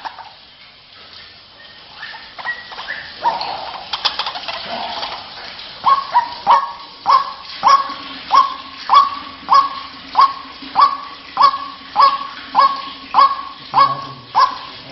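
White-breasted waterhen (ruak-ruak) calling: a few scattered croaking notes, then from about six seconds in a steady run of loud, short 'kru-ak' calls, about one and a half a second. This is the call used as a lure to draw other waterhens in.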